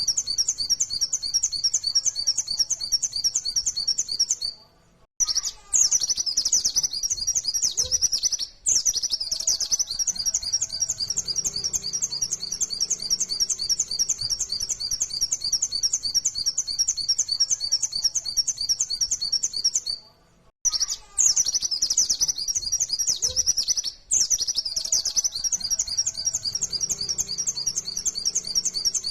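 White-eye (pleci, Zosterops) singing a fast, high-pitched, unbroken stream of chirps in the rapid 'nembak' style. The song stops briefly twice, about five seconds in and again near twenty seconds, and the two stretches between look alike, as if the same recording is played in a loop.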